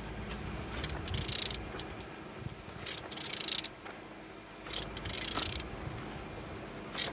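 A used engine being turned over by hand with a ratchet wrench: several short stroke-by-stroke bursts of ratchet clicking, about one to two seconds apart. The crankshaft turns freely.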